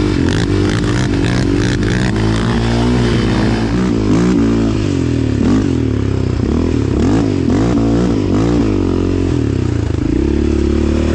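Yamaha Raptor 700R quad's single-cylinder engine running under throttle while riding, its pitch rising and falling again and again as the revs go up and down.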